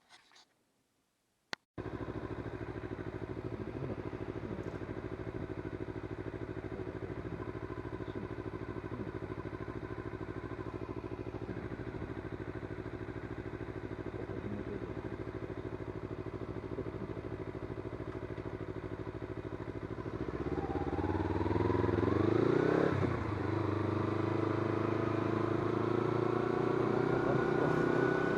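Kawasaki Z250 parallel-twin motorcycle engine starting about two seconds in and idling steadily. About twenty seconds in it revs up as the bike pulls away, dropping in pitch at a gear change and then climbing again.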